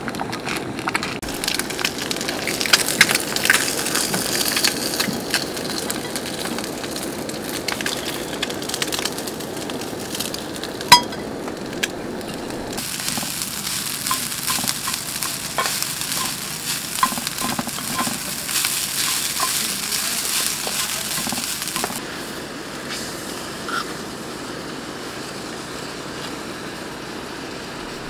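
Food sizzling in a cast-iron skillet on a gas camp stove: an egg frying, then fried rice being stirred with a spatula, the sound changing at each cut. A single sharp click about eleven seconds in.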